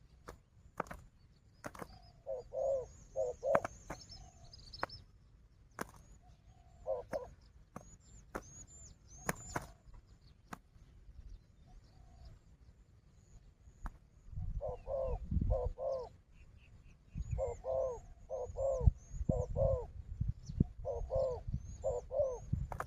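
Spotted doves cooing in short phrases of two to four low notes, repeated several times and busier in the second half. Sharp clicks and low thudding and rustling run through it, with high thin chirps of small birds faintly behind.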